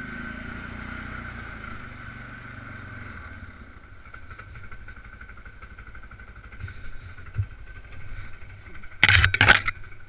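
Polaris Sportsman 500 ATV's single-cylinder engine running at a steady low speed on a trail, pulling harder for the first few seconds, then easing off. Near the end there are two loud thumps in quick succession.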